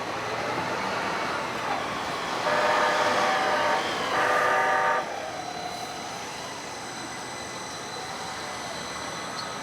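Streetcar horn sounding two blasts of a chord of several notes: a longer one about two and a half seconds in, then a shorter one right after. Steady rail running noise underneath.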